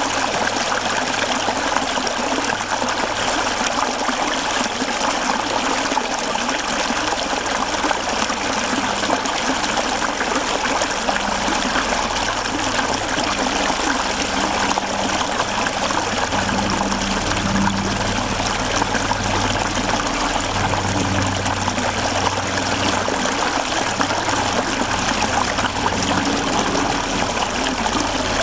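Mountain stream flowing over rocks: a steady trickling and rushing of water.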